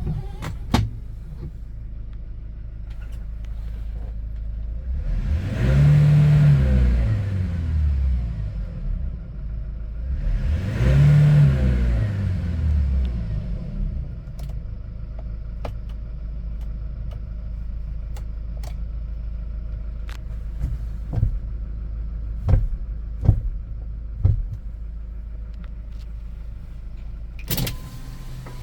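Hyundai Porter II truck's diesel engine idling steadily, revved up and back down twice, each rev lasting a few seconds. Scattered sharp clicks are heard over it, with a louder one near the end.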